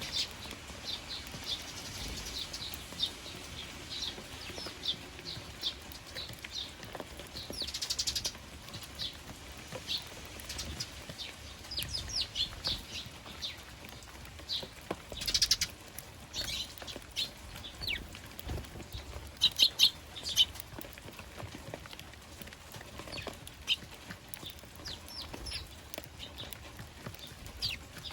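Eurasian tree sparrows chirping: a steady stream of short, high chirps, with quick runs of calls about 8 and 15 seconds in and the loudest chirps around 20 seconds in.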